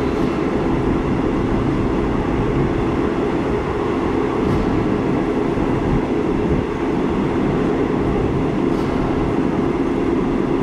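Passenger train running, heard from inside the carriage: a steady rumble with a low hum and a few faint clicks.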